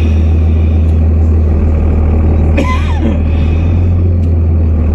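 Pickup truck engine running with a heavy, steady low rumble. A brief falling squeal comes about two and a half seconds in.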